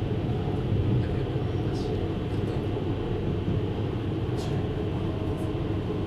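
JR Hokkaido 733 series electric train running at speed, heard inside the passenger car: a steady rumble of wheels on rail and running gear, with a faint steady tone and a few brief high ticks.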